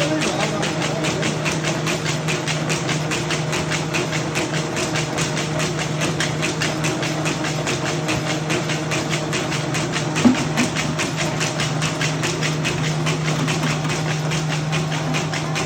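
A machine running steadily: a constant hum with a fast, even clatter of about five beats a second, and one sharper knock about ten seconds in.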